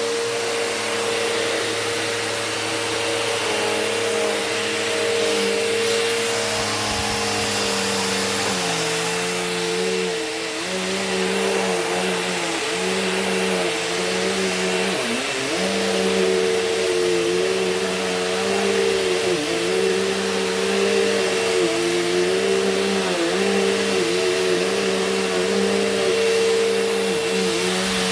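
Bissell CleanView Rewind Pet upright vacuum cleaner running on carpet, a steady motor hum. From about a third of the way in, its pitch dips briefly and recovers roughly once a second.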